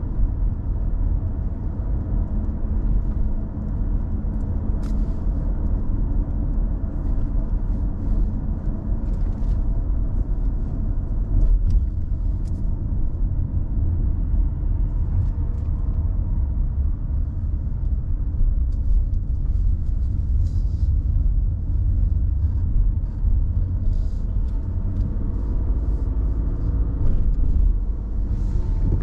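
Car driving: a steady low rumble of engine and road noise, with faint scattered ticks over it.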